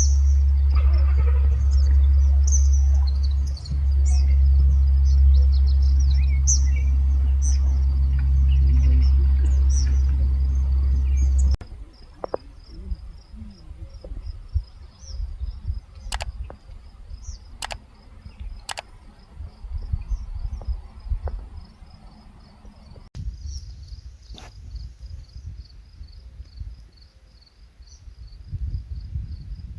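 Crickets trilling in a steady, even pulse while birds chirp. For the first third a loud steady low rumble lies underneath; after it drops away, a few sharp clicks come through the middle.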